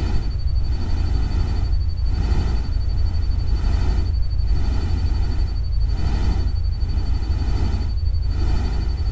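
Synthesized nature-sound noise bed standing in for rain and a stream: a deep steady rumble under a hiss that swells and fades about every two seconds, with a thin steady high whine on top.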